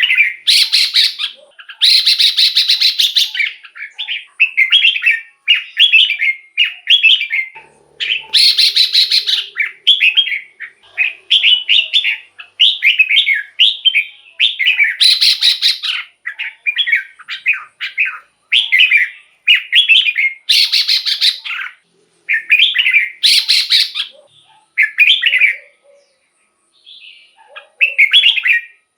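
Red-whiskered bulbul song: a quick string of short, loud, warbling phrases, broken every few seconds by harsher rasping notes, with a brief pause near the end.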